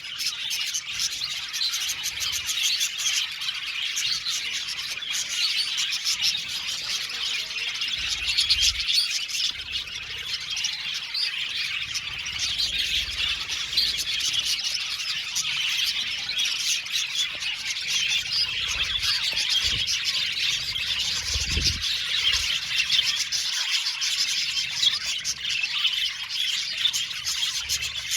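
A flock of budgerigars chattering and chirping without pause, many birds calling at once.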